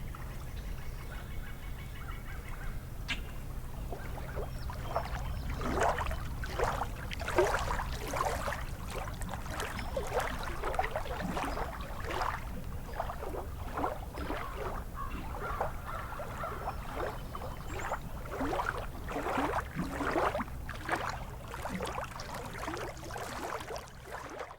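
Many waterbirds calling over and over in short, sharp calls, thick and overlapping from about five seconds in. A steady low rumble runs underneath.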